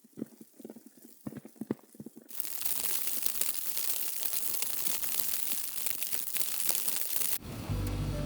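Scattered low crunching and crackling. About two seconds in, a loud, rushing hiss full of crackles takes over. It cuts off near the end, when music begins.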